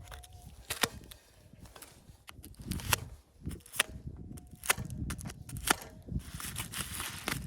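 A series of sharp cracks or knocks, about one a second, with low thuds and rustling between them.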